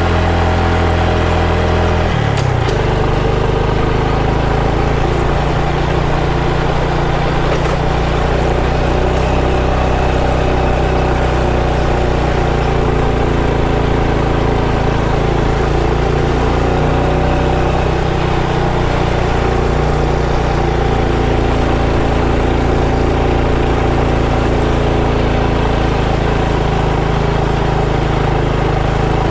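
Motorcycle engine running steadily under the rider, its note changing about two seconds in.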